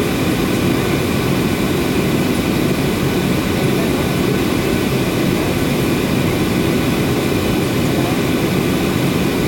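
Steady jet airliner noise from a Boeing 737-800 in flight: an even, unbroken roar of its CFM56-7B turbofan engines and the rushing air.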